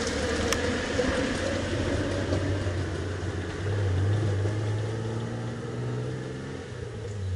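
Mitsubishi Pajero's V6 engine driving off along a dirt track, getting louder about halfway through as it pulls away, its pitch stepping as it changes gear.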